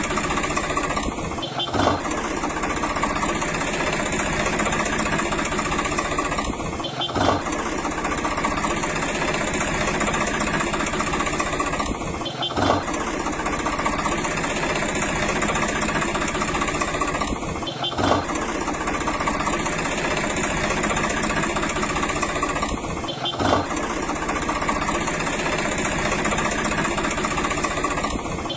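Engine running steadily, like idling, on a loop that repeats about every five and a half seconds, each repeat marked by a brief click.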